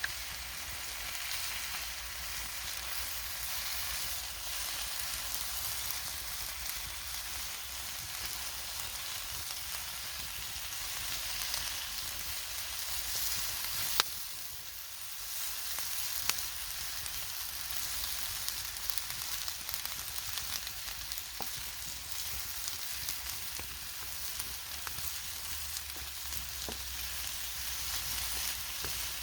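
Food sizzling steadily in a pan over a campfire, with a few sharp clicks, the loudest about 14 seconds in.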